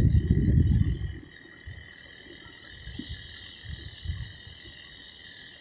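A steady, high-pitched chorus of calling frogs, holding several even pitches throughout. A loud low rumble in the first second fades out.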